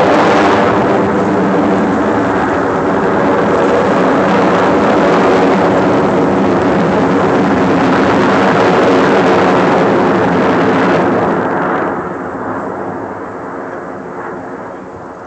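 An aircraft passing loudly, its engine note steady for most of the time, then fading away over the last few seconds.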